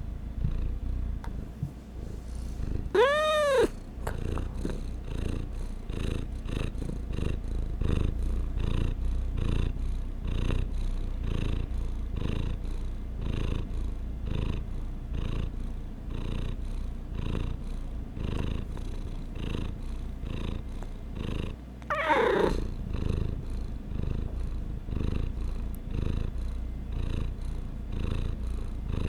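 A domestic cat purring close to the microphone in a steady rhythmic pulse, with a short meow about three seconds in and another brief meow near 22 seconds.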